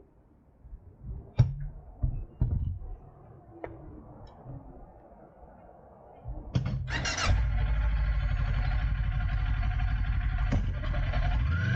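A few clicks and knocks, then a Kawasaki Ninja 400's parallel-twin engine is started a little over six seconds in and settles into a steady idle.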